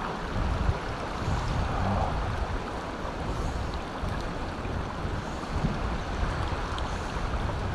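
Mountain stream water running, a steady rushing noise.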